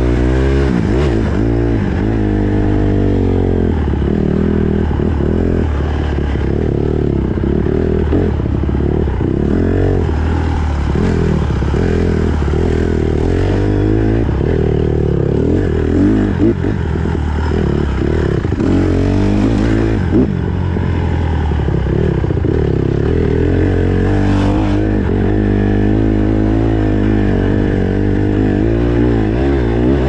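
Small single-cylinder four-stroke dirt bike ridden along a trail, its engine revving up and falling back again and again with throttle and gear changes.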